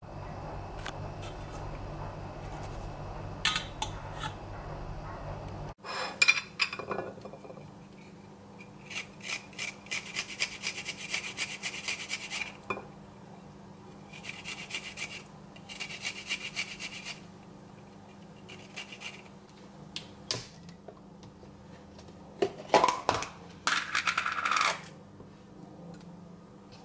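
Kitchen food-preparation sounds: utensils clicking and scraping against dishes in several bursts of rapid strokes, with a few sharp knocks near the end.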